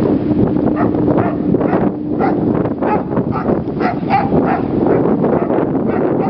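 Snowstorm wind buffeting the microphone, a loud dense rush broken by repeated short gusts, with a steady low tone, perhaps a distant horn, fading out about two seconds in.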